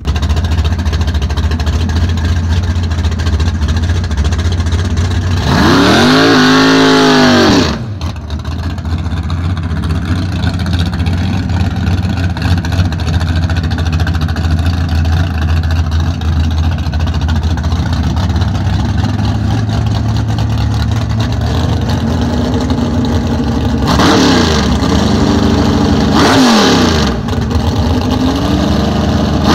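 1968 Chevrolet Camaro's engine running loudly at a steady, deep idle, revved up and back down once about six seconds in and a few more times near the end.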